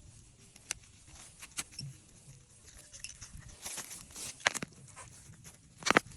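Scattered rustles, snaps and knocks of hands working through taro plants and soil, with a louder sharp knock near the end.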